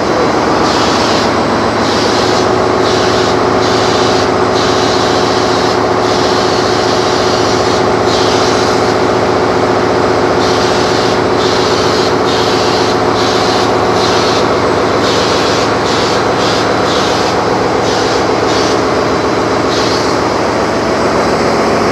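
Steady drone of a ship's engine-room machinery, overlaid by a paint spray gun hissing in short bursts as it is triggered on and off over and over.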